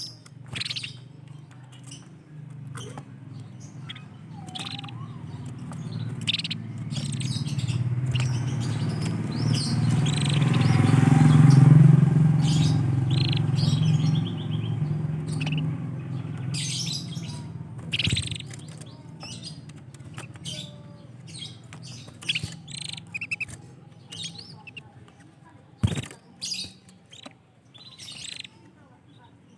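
Canaries chirping and calling in short, scattered notes. A low rumble swells to the loudest point around the middle, then fades.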